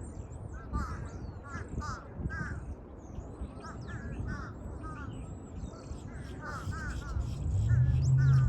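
Crows cawing in short clusters of two or three calls, with smaller birds chirping higher and fainter behind them. A low steady hum comes in near the end.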